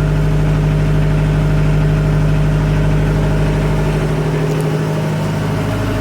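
The trawler's glow-plug diesel inboard engine, just started and running steadily at idle.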